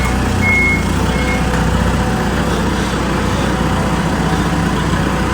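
Tow truck's diesel engine running steadily as it reverses, its reversing alarm beeping a few times in the first second and a half and then stopping.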